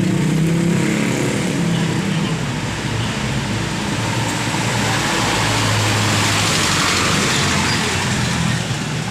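A truck passing close on the road: engine running with tyre and road noise that swells through the middle and eases near the end.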